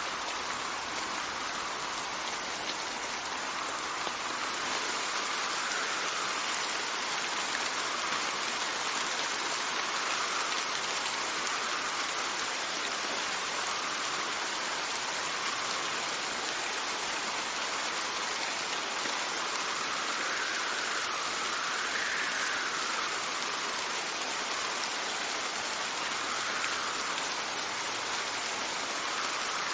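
Steady rain, with wind gusting over it that rises and falls in pitch every few seconds.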